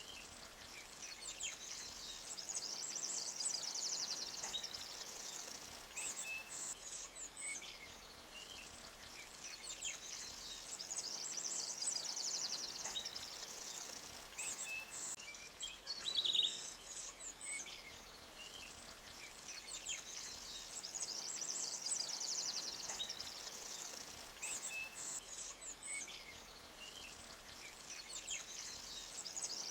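Forest creek running over rocks, with small birds chirping. Rapid high trills swell about every ten seconds.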